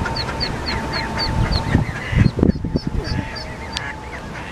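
Newly hatched ducklings peeping: a run of short, high, down-slurred peeps about three a second. There is a burst of low rumbling and knocks about halfway through.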